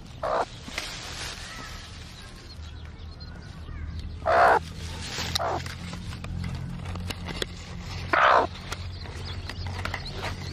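Harsh bird calls, four short ones: one just after the start, two close together around four and a half seconds, and a loud one around eight seconds, with the second and fourth the loudest.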